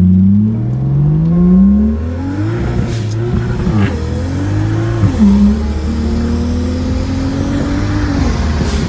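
Single-turbo BMW 135i's turbocharged inline-six accelerating hard through the gears. The pitch climbs steeply, drops at shifts about two and five seconds in, then climbs slowly in a long pull near the end.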